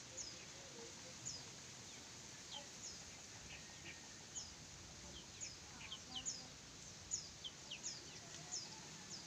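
Faint chirping of small birds: short, high chirps that each fall in pitch, coming irregularly about one or two a second.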